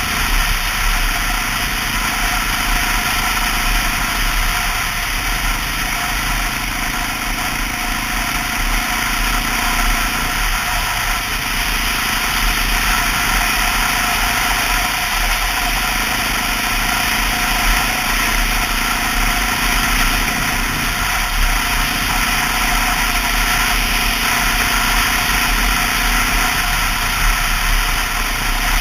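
Honda XR650L's single-cylinder four-stroke engine running under way, under a steady rush of wind noise. The engine note drops out briefly about every five seconds.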